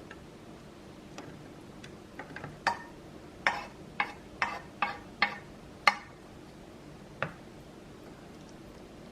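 An irregular run of about a dozen light, sharp clicks and taps, bunched in the middle, with the loudest near the end of the run.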